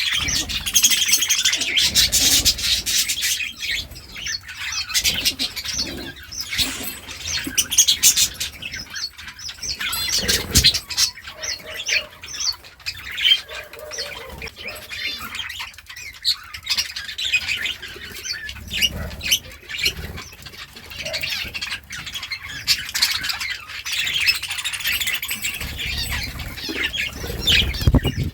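Budgerigars chirping and warbling in a continuous stream of chatter, with brief rustling or fluttering noises now and then.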